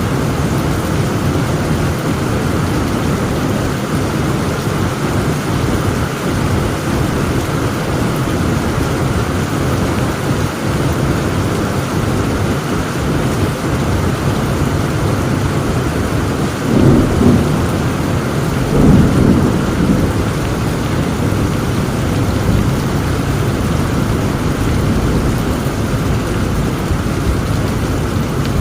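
Heavy rain falling steadily in a thunderstorm. A little past halfway, thunder breaks twice, two seconds apart, and a low rumble hangs on after the second clap.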